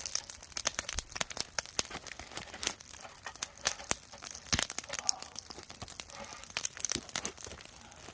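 Wood fire burning hot, crackling and popping with many sharp, irregular snaps.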